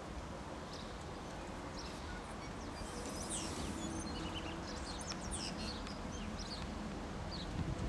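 Small birds chirping in short repeated calls over a steady low background noise, with a brief low thump near the end.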